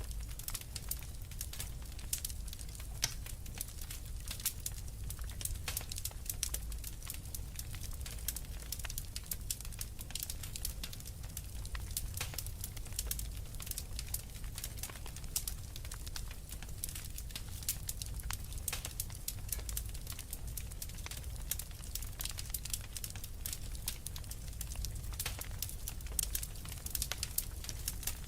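Wood fire burning in a fireplace, with many small irregular crackles and pops over a steady low rumble of the flames.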